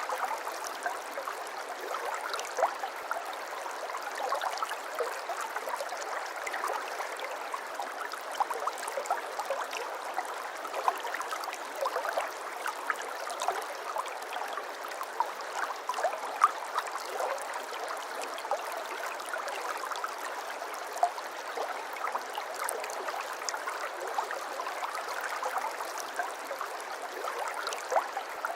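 Steady trickling, babbling water of a small stream, a continuous wash dotted with small splashes and bubbling.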